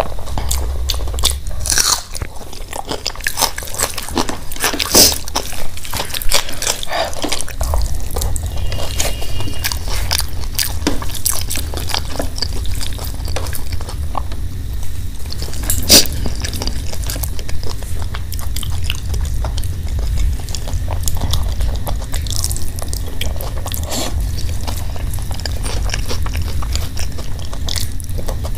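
Close-miked chewing and wet mouth smacks of someone eating big handfuls of rice mixed with aloo bharta by hand, with many sharp clicks throughout over a steady low hum.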